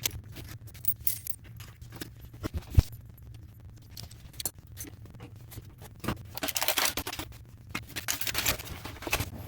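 Scattered clicks, taps and light clinks of hands working at a toilet and its flange, with one sharp knock about three seconds in and a busier run of clicking from about six and a half to eight and a half seconds.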